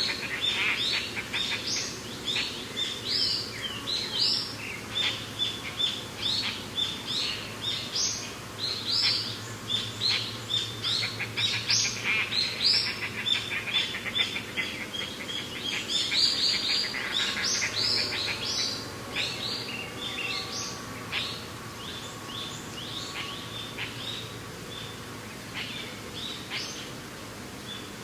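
A chorus of small birds chirping rapidly, many short, high calls overlapping, busiest for the first twenty seconds and then thinning to scattered chirps.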